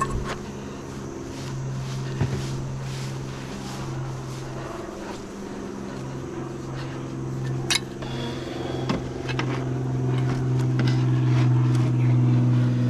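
Honeybees buzzing around an opened hive: a steady, droning hum of many wingbeats that grows louder near the end, with a few sharp clicks of hive equipment.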